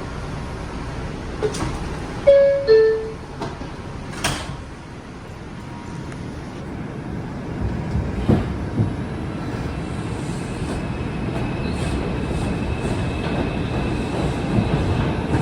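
R142 subway car door chime, two descending tones, about two seconds in, with sharp knocks of the sliding doors around it and a loud one as they shut about four seconds in. From about eight seconds in the train pulls away and its running noise builds steadily.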